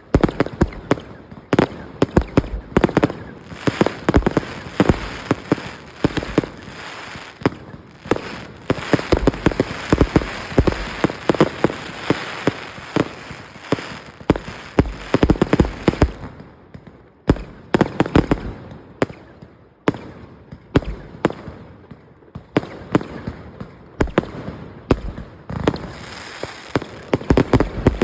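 A decorative firework pot going off: a dense, continuous stream of sharp crackling pops that eases briefly about sixteen seconds in, then picks up again.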